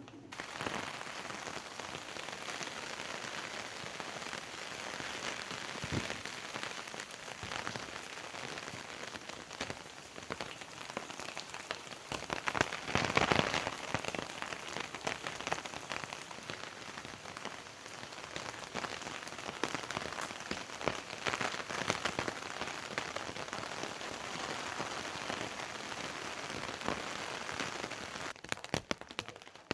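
Steady rain falling, a dense patter of many small drops, with a louder swell about thirteen seconds in.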